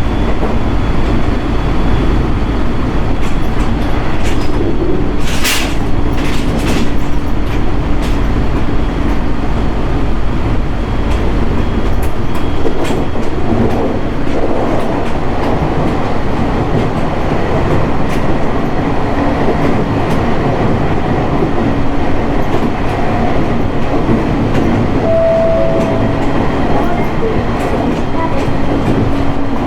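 JR East 701 series electric train running at speed, heard from inside the car: a steady rumble of wheels on rail and motor hum, with a few sharp knocks about five to seven seconds in, the wheels passing over rail joints.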